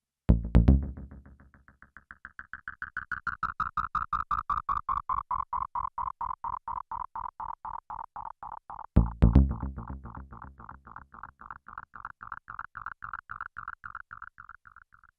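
Behringer Neutron synth bass notes through an MXR Carbon Copy analog delay: two notes, each followed by a long train of fast echoes, about six a second. The echoes swell, then fade slowly into a ringing midrange tone, with the feedback set high.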